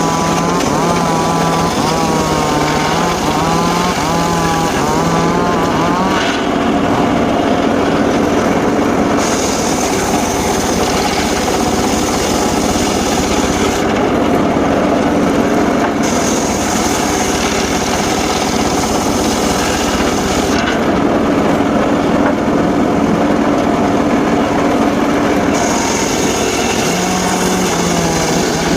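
Homemade circular saw rig running steadily while sawing mahogany wood. Its pitch steps and wavers in the first few seconds and again near the end.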